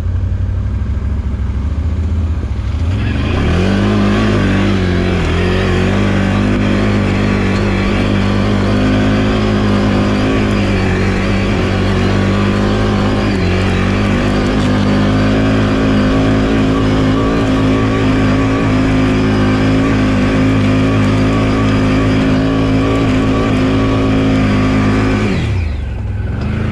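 Can-Am Outlander 1000 XMR ATV's V-twin engine pulling under throttle. It runs low for a few seconds, then revs up about three seconds in and holds a steady high note with small wavers, eases briefly midway, climbs again, and drops back near the end.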